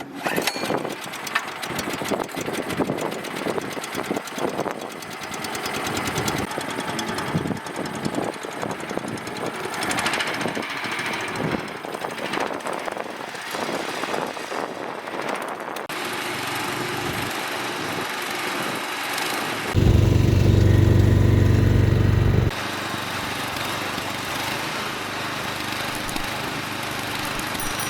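Small 5 HP gasoline engine running, in segments that change abruptly. About twenty seconds in, a much louder, deeper stretch lasts nearly three seconds.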